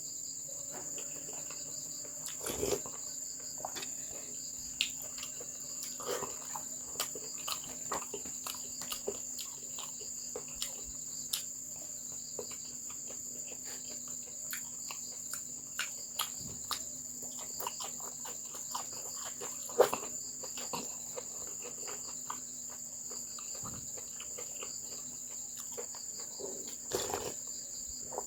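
Steady high-pitched chirring of crickets, with scattered soft clicks and smacks of someone eating.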